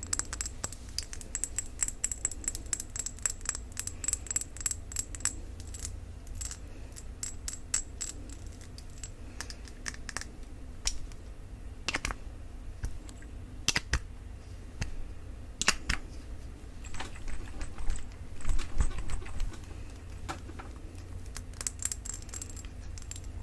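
Tapping on a glass perfume bottle. Quick, light taps come first, then slower and sparser taps with a few sharper clicks, and the tapping quickens again near the end.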